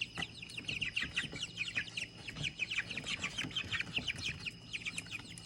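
Chickens chirping without a break: many short, high, falling peeps overlapping, several a second.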